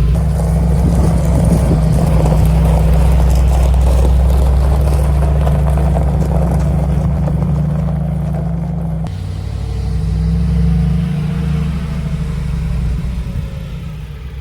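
Mercedes-AMG G63's V8 engine and exhaust running at a steady, deep note, which dips briefly about nine seconds in, picks up again, then fades near the end.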